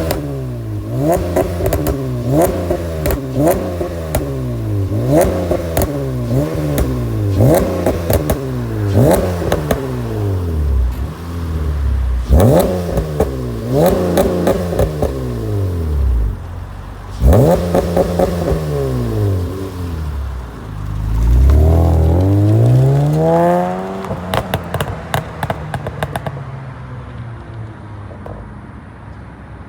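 9th-generation Honda Accord's 3.5-litre V6 through a straight-through Magnaflow aftermarket exhaust, blipped repeatedly with quick rises and falls in revs, then held up in a longer rev. Sharp pops and crackles come on the overrun, thickest after the long rev, before it drops back toward idle near the end.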